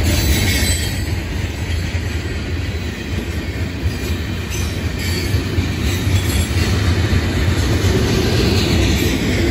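Freight train hopper cars and gondolas rolling past: a steady, heavy rumble of steel wheels on the rails.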